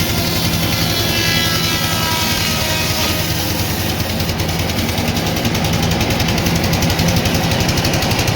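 Sawmill machinery running steadily with a deep, even hum. A higher whine falls in pitch over the first few seconds, and from about halfway a fast, even rattle joins in.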